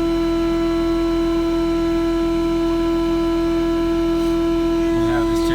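Mercedes SLK 320's 3.2-litre V6 idling, with a loud, steady, unchanging whine over it. The owner thinks a pulley may need changing.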